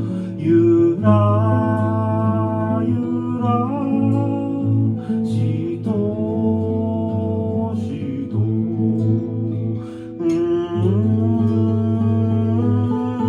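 Acoustic guitar accompaniment with a voice singing a melody in long held notes that glide between pitches.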